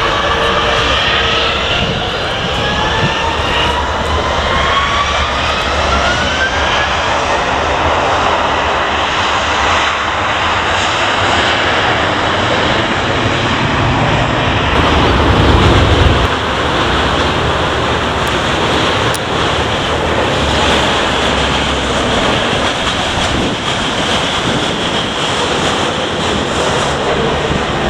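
Jet airliner's turbofan engines spooling up to takeoff thrust: a rising whine over the first several seconds, then a loud steady roar that swells to its peak about sixteen seconds in.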